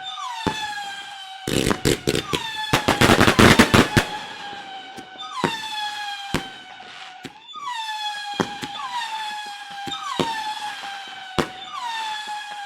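Fireworks: a string of overlapping whistles, each starting with a short downward swoop and then holding a steady high pitch, a new one about every second and a half. A dense run of crackling bangs comes about two to four seconds in, with single bangs scattered through the rest.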